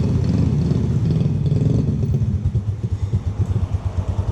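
Motorbike engine running close by, fuller for the first two seconds, then settling to a fast, lumpy idle.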